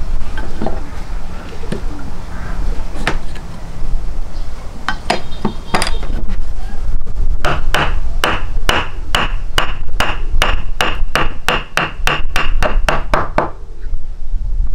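Repeated sharp strikes: a few scattered blows, then a steady run of about twenty, roughly three a second, each with a brief ringing tone, stopping about a second before the end. A steady low rumble runs beneath.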